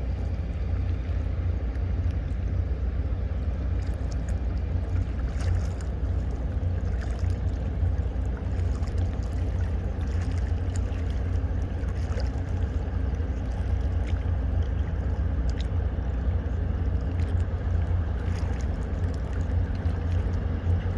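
Steady low rumble of tugboat engines working a ship, with faint scattered ticks.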